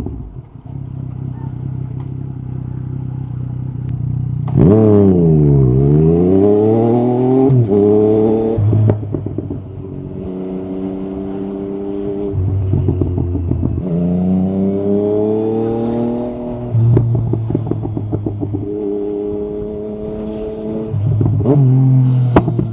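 Yamaha MT-09 SP's inline-three engine through an Akrapovic carbon exhaust, riding and accelerating up through the gears. The revs climb and then drop at each shift, with a sharp fall and rise in pitch about five seconds in. Short crackles come from the exhaust as the throttle closes.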